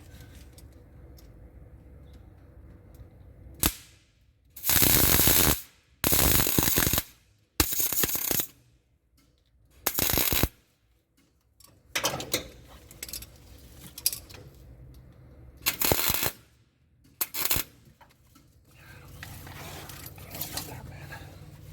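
Electric welding arc crackling in short bursts, about seven of them, each lasting up to a second with pauses between. The welding is being laid onto a snapped exhaust manifold bolt on a Dodge Ram Hemi to extract it.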